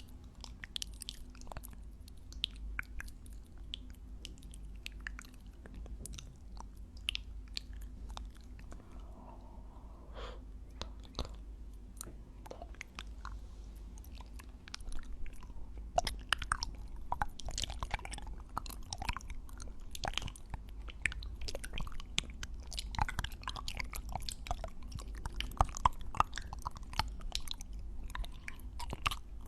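Close-microphone ASMR chewing and biting: a continuous run of short crisp mouth clicks and bites that grows busier and louder about halfway through.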